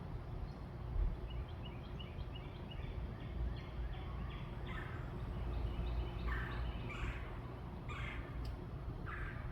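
Backyard birds calling: a run of quick high chirps in the first few seconds, then several louder short calls about a second apart, over a steady low rumble.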